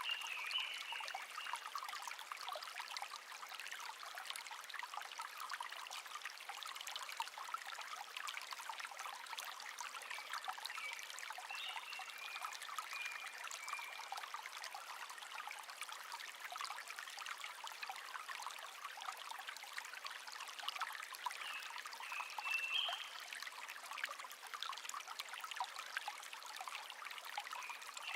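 A small stream babbling and trickling steadily, with faint bird chirps and short songs now and then, notably about twelve seconds in and again about twenty-two seconds in.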